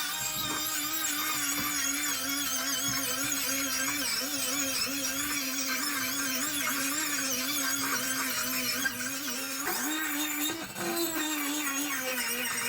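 Small electric power tool running steadily with a wavering whine, its pitch sagging briefly about ten seconds in as the tool is loaded against the work.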